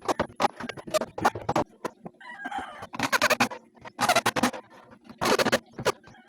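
Short, loud bird calls repeated roughly once a second, over a faint steady hum.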